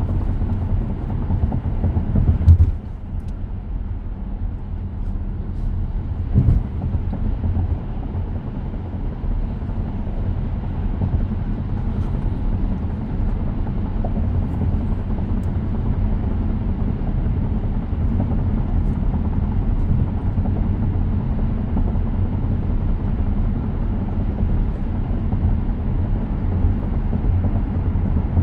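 Steady road and tyre rumble inside the cabin of a moving 2023 Tesla Model X, with two short knocks a few seconds into it.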